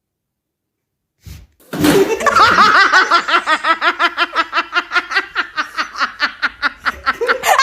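A long run of rapid, high-pitched laughter, about five pulses a second, starting about two seconds in after a short silence.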